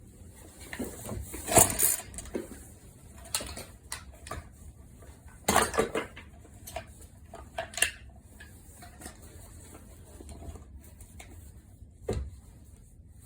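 Metal clanks and clinks from handling parts and tools on a small engine, a handful of separate knocks a couple of seconds apart, the loudest about 1.5 and 5.5 seconds in.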